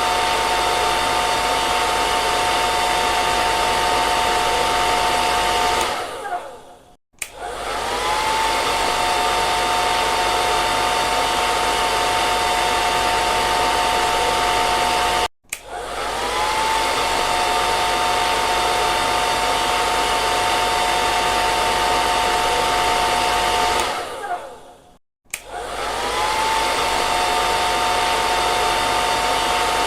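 Electric hair dryer blowing steadily, a rushing hiss with a motor whine over it. Three times it stops and starts again: it fades out about six seconds in, drops out for a moment about halfway through, and fades again near the end. Each restart comes back with a short rising whine as the motor spins up.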